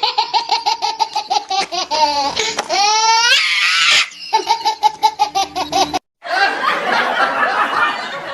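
A person laughing hard in rapid, repeated ha-ha bursts, rising into a high squeal about three seconds in. After a sudden break near six seconds, the laughter goes on in a denser, noisier stretch.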